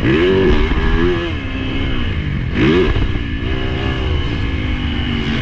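Motocross bike engine on a lap: the revs climb sharply twice, about half a second in and again near three seconds, and fall back between, under heavy wind rumble.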